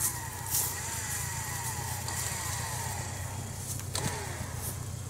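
Lada 4x4's four-cylinder engine running steadily in the distance, with a high falling tone repeating about every half second over it during the first couple of seconds. Wind gusts on the microphone come and go.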